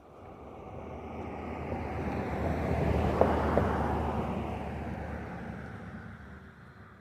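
Electric ducted fan of an FMS F-18 64 mm RC jet making a pass: its rushing whoosh swells to a peak about three seconds in, then fades away as the jet flies off.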